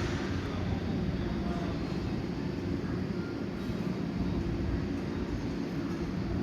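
Tobu 8000 series electric commuter train pulling into the station, a steady rumble of wheels and traction motors.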